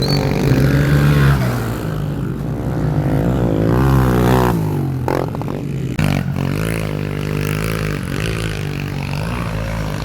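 Pit bike engine revving up and down, its pitch rising and falling with the throttle, with a brief clatter about five to six seconds in.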